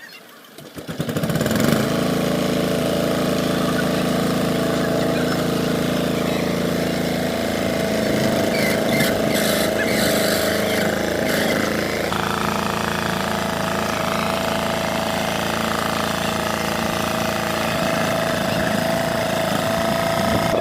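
An engine starts about a second in, then runs steadily.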